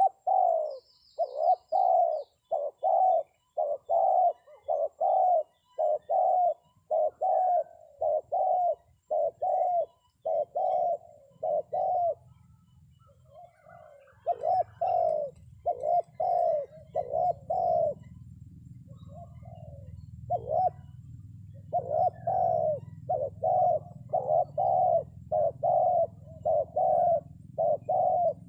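Spotted dove decoy call cooing in a fast, even series of short coos, about one and a half a second, with a brief break about halfway through; used to lure wild spotted doves down to the trap. A low steady rumble comes in under it partway through.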